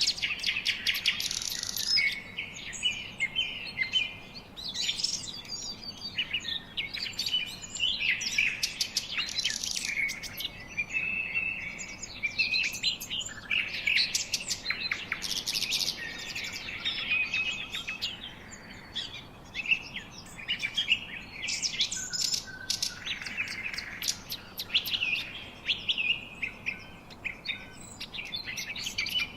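Several birds chirping and singing at once, with busy overlapping chirps, trills and quick clicking notes.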